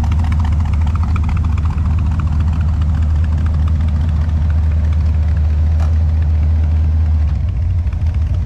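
A car engine idling with a steady low rumble that shifts slightly about seven seconds in.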